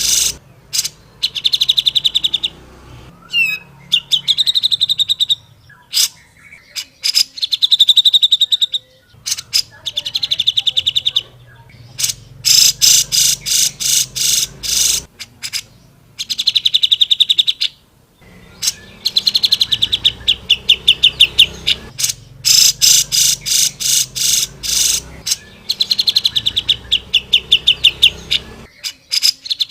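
Grey-cheeked bulbul (cucak jenggot) singing in loud repeated phrases, each a quick series of harsh chattering notes running into a buzzy trill, with short pauses between phrases.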